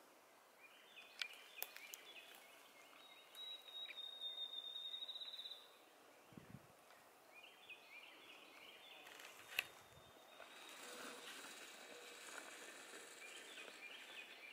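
Faint songbirds singing: one high, rapid trill lasting about two seconds, and three times a short phrase of quick notes that step in pitch. A few sharp clicks.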